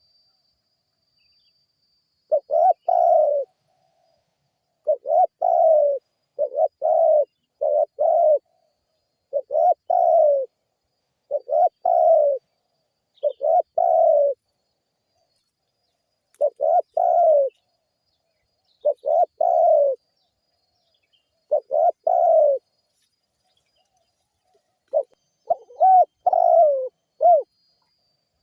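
Spotted dove (tekukur) cooing: short phrases of low, slightly falling coos repeated every couple of seconds, with completely silent gaps between them and a longer pause near the end.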